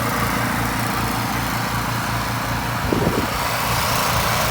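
Pressure-washing rig's gas engine running steadily with an even low pulsing beat, under a constant hiss of water. A brief extra sound about three seconds in.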